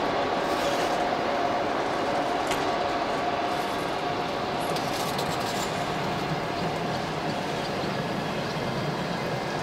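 Passenger coaches of a train hauled by a ChS4 electric locomotive rolling away slowly as the train departs, a steady rumble of wheels on the rails with a few sharp clicks, easing off slightly.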